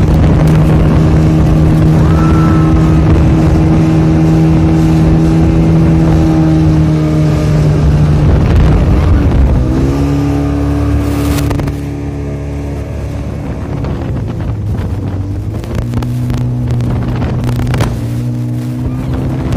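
Motorboat engine running steadily under load; about halfway through the engine note drops and then settles at a new pitch, and it is somewhat quieter after that.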